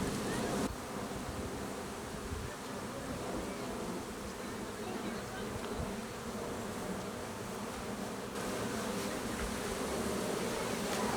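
A large honeybee swarm buzzing steadily, the dense hum of many wings with a few steady low tones in it. A rushing noise over the hum drops away within the first second and returns about eight seconds in.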